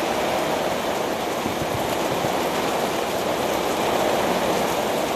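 Thunderstorm rain falling steadily in a downpour, an even hiss.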